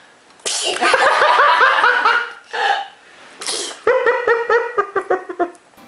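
High-pitched laughter in two runs of quick, rhythmic bursts, set off by a sudden noisy outburst about half a second in, with another short noisy burst between the runs.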